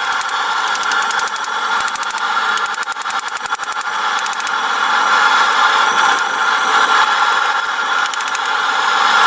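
A forge running steadily: an even rushing noise with a constant whistling tone.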